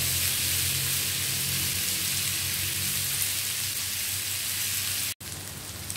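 Sliced boiled pork with onions sizzling in hot oil in a frying pan, a steady hiss as the meat fries to crisp and brown. The sound cuts off abruptly about five seconds in and returns quieter.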